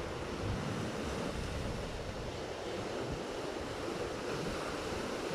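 Sea waves washing ashore in a steady surf, with wind buffeting the microphone in uneven low rumbles.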